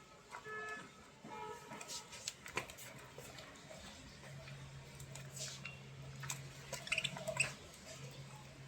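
Budgerigar chattering softly: a few short pitched notes in the first second and a half, then scattered scratchy chirps and clicks that bunch up near the end. A low steady hum comes in about four seconds in.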